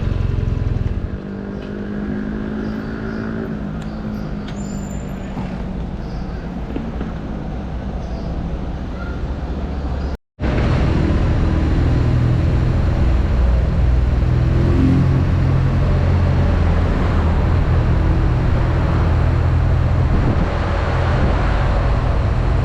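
BMW R nineT's boxer-twin engine running under way, its pitch rising and falling for the first ten seconds. The sound cuts out completely for a moment just after ten seconds, then returns as a louder, steady engine note.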